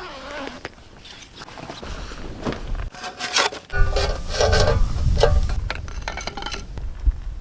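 Handling noises: rubbing and scraping with scattered knocks and short squeaks, over a low rumble that comes in about two seconds in and grows louder midway.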